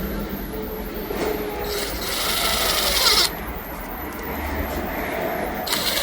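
Power drill working on the side of a car radio's metal case at the heatsink area, for a mounting screw. It runs in bursts: a loud run that stops about three seconds in, then it builds again near the end.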